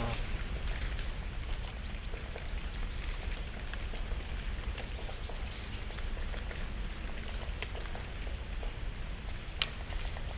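Dry autumn leaves falling and ticking onto the leaf litter in a light, irregular patter, with faint thin high calls of shy songbirds; one short high call about seven seconds in and a single sharp tick near the end.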